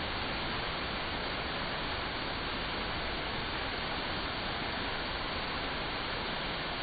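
Artificial waterfall: water falling and splashing in a steady, even rush.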